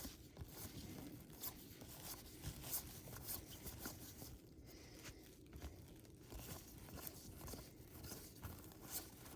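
Faint crinkling and tearing of a trading card pack wrapper, with short clicks and rustles of cards being handled.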